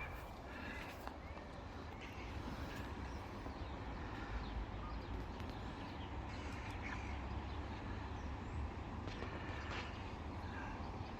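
Outdoor ambience: a steady low rumble like distant traffic, with scattered bird calls and chirps over it.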